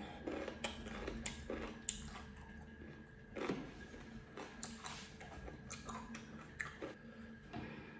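A person chewing a mouthful of cucumber close to the microphone: irregular moist mouth clicks and small crunches, with a few louder ones about three and a half seconds in.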